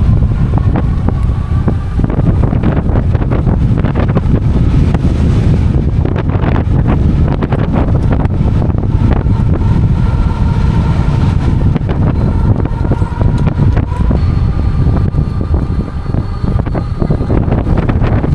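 Strong wind buffeting the microphone of a rider on a moving e-bike: a loud, continuous low rumble with irregular gusting crackle.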